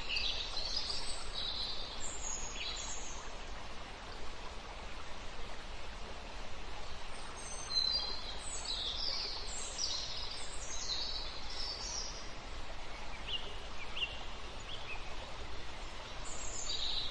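Birds calling in groups of short, high chirps, at the start, through the middle and again near the end, over a steady rushing background noise.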